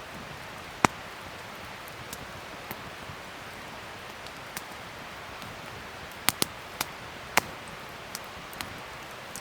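Wood fire burning with a steady hiss and sharp crackles and pops: one loud pop about a second in, then a quick run of pops near the end.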